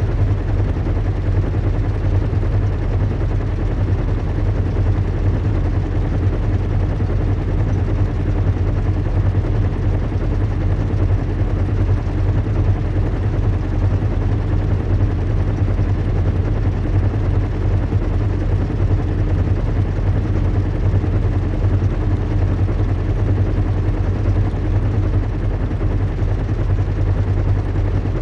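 Steady low drone of a large airship in flight, a recreated engine-and-airflow rumble. It is strongest in the deep bass, with a faint steady hum above it and a wash of noise, and it does not change.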